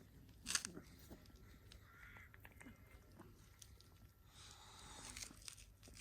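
Faint clicks and crunches of a cat chewing food, with a sharper click about half a second in and a brief rustle about four and a half seconds in.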